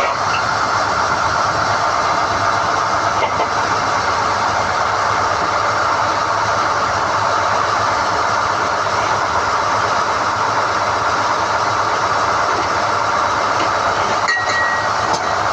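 SDH-1600 diamond core drilling rig running steadily under load while hoisting NQ drill rods out of the hole: a loud, even mechanical din. A brief high squeak with a click comes near the end.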